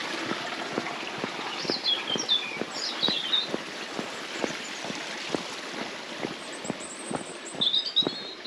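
Footsteps walking at a steady pace, about two or three steps a second. A small bird chirps in short high bursts about two seconds in and again near the end.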